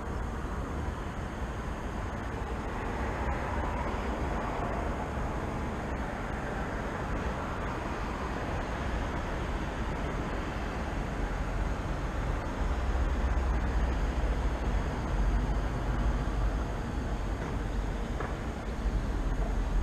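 City traffic noise: a continuous rumble of road vehicles, swelling louder about two thirds of the way through.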